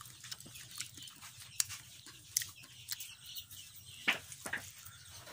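Close-up chewing of cooked field rat meat: scattered short wet smacks and crunchy clicks from the mouth.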